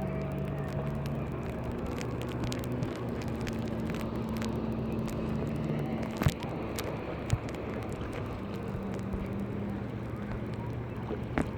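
A motorboat engine droning steadily, its low pitch shifting slightly, with a few sharp knocks about six, seven and eleven seconds in.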